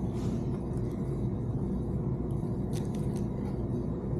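Steady low rumble of background noise, with a few light clicks about three seconds in as small screws are tried in a car radio's mounting bracket.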